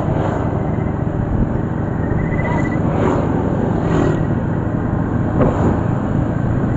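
Steady rumble of a moving vehicle, engine and road noise running without a break.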